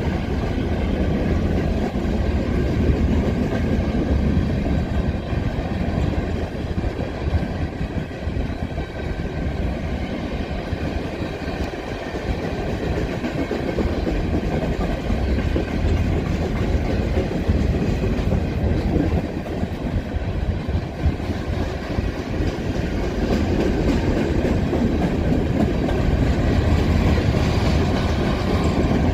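Union Pacific coal train rolling past at a steady speed: a continuous rumble of steel wheels on the rails that keeps up without a break.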